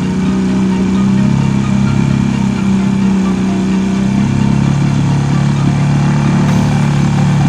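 Marlin 5 hp outboard motor running steadily on a boat, its note shifting about four seconds in.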